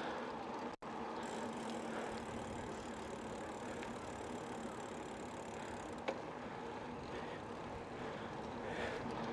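Steady rolling and wind noise of a bicycle ride with a faint steady hum underneath. The sound drops out briefly just under a second in, and there is a single click around six seconds.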